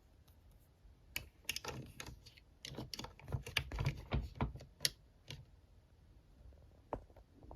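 Hard plastic toy pieces being handled, clicking and knocking together in a quick, irregular run of taps that stops about two-thirds of the way through, with one more click near the end.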